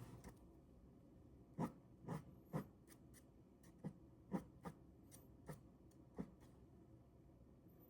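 Ballpoint pen drawing on paper: about ten short, soft strokes at uneven intervals, starting a second and a half in.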